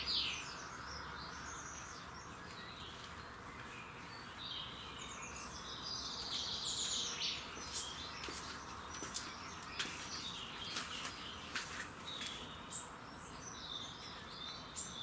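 Several birds singing, with repeated chirping phrases and short sharp chips over a steady outdoor background hum.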